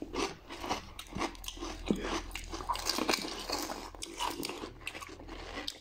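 Pani puri being chewed: crisp fried hollow puri shells crunching and cracking between the teeth in a quick, irregular string of short crackles.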